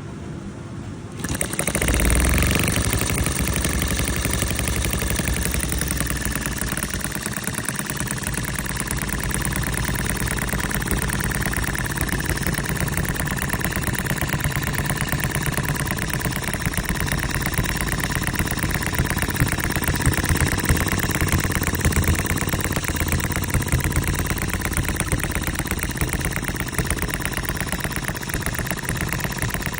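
RETROL HM-01 model hit-and-miss stationary engine starting up about a second in, then running steadily with a rapid, regular beat.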